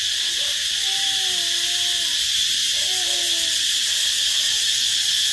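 Steady, shrill insect chorus, a continuous high-pitched drone. Faint, low wavering calls rise and fall under it during the first few seconds.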